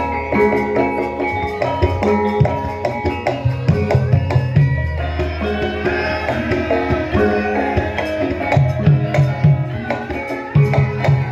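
Javanese gamelan music for lengger dance: metallophone and gong notes ring over busy hand-drum (kendang) patterns.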